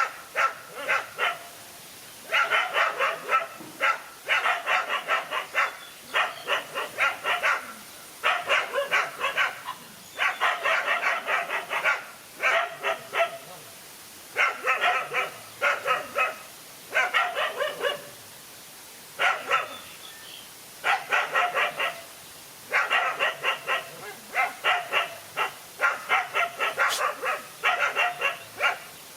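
Dogs barking in rapid bouts of quick barks, a second or two each, broken by short pauses.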